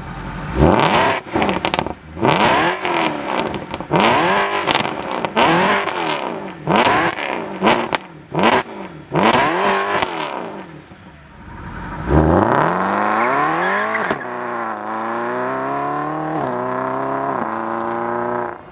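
Mercedes-Benz SLS AMG Roadster's 6.2-litre V8 through a Renntech exhaust, first blipped in about eight sharp free revs with cracks and pops as each rev falls. About twelve seconds in the car launches and accelerates hard away, the engine note climbing and dropping at each quick upshift of the dual-clutch gearbox.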